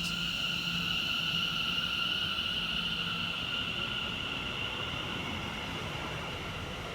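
Class 720 Aventra electric multiple unit departing, with a steady high electrical whine over rolling noise that slowly fades as the train moves away.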